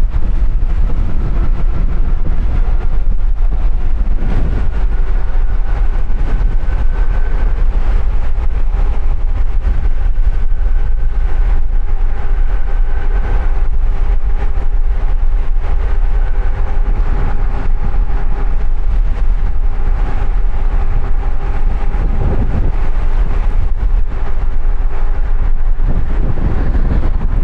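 Heavy wind buffeting on an action camera's built-in microphone with no wind guard, while riding a bicycle at speed in strong wind. A steady hum of a few pitches sits under the rumble from about three seconds in until near the end.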